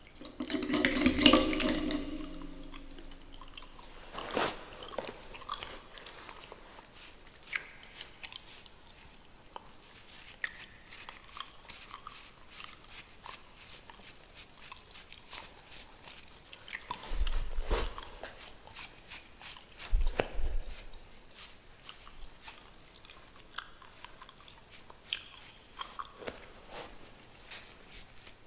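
Fingernails scratching through a beard close to the microphone: dense crackling, bristly scrapes, with a louder stretch near the start and a couple of low bumps past the middle.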